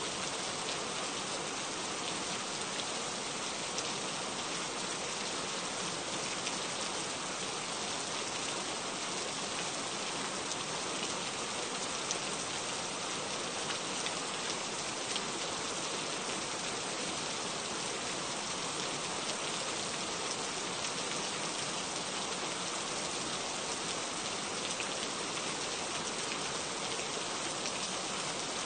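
Steady rain falling, an even hiss of drops with a few louder single drops standing out here and there.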